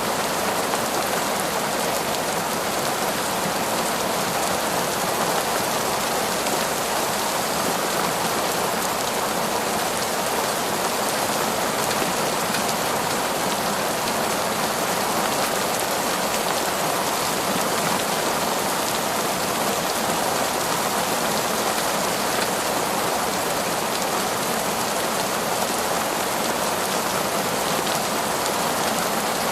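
Heavy, torrential rain falling steadily, an even unbroken hiss of rain with no distinct drops or thunder standing out.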